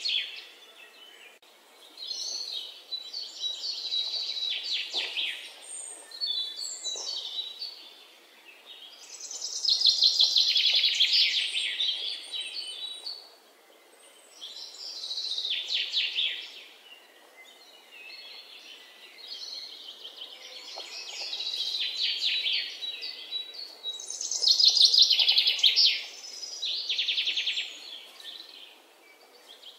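A bird singing a run of trilled phrases, each a second or two long with short pauses between, some louder than others.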